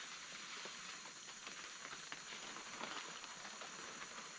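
Rainforest ambience: a steady, high-pitched insect chorus with scattered light ticks and patter.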